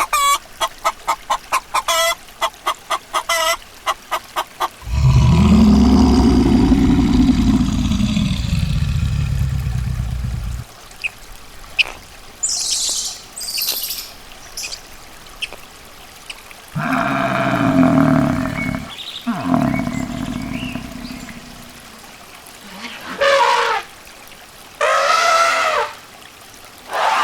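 A series of different animal calls, one after another: a fast run of short repeated calls at first, then a long low rumbling call, scattered shorter sounds, and two pitched calls near the end.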